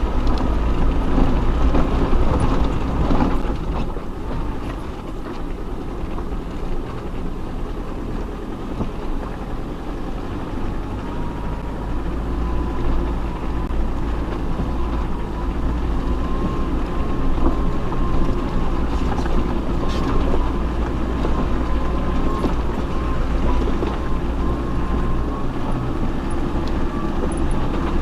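Off-road 4x4 engine running at low speed over a rough track: a steady deep rumble with a few knocks, and a faint wavering whine from about halfway through.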